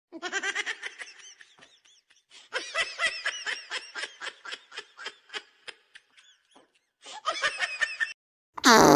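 High-pitched laughter in rapid ha-ha pulses, in three stretches with short pauses between them. A loud, short cry falling in pitch comes near the end.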